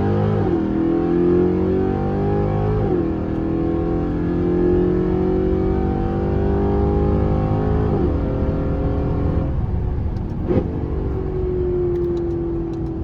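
Chevrolet C8 Corvette's V8 accelerating hard at full throttle down a drag strip, heard from inside the cabin. The engine note climbs through each gear and drops quickly at upshifts about three and eight seconds in. Near the end the pitch falls away as the driver lifts off after the run.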